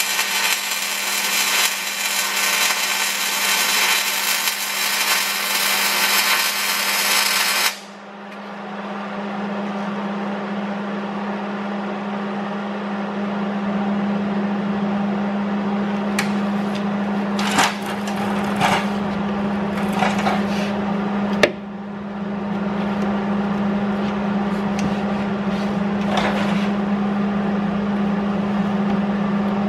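Electric angle grinder working on steel: a loud hiss of grinding for about the first eight seconds that cuts off suddenly, then the motor runs on with a steady hum and a few short bursts of contact with the metal.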